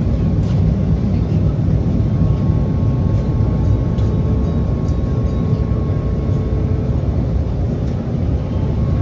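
SEPTA trolley running along the line: a steady low rumble with a faint, even whine held above it.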